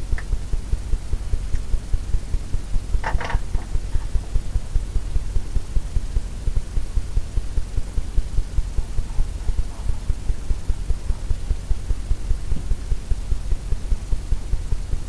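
Low rhythmic throbbing hum, pulsing about four times a second, with a brief short sound about three seconds in.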